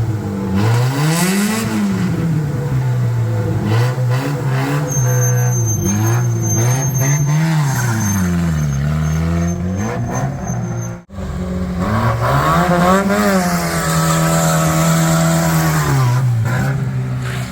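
Yugo's small four-cylinder engine under way, its pitch repeatedly rising as it revs and falling back at each gear change.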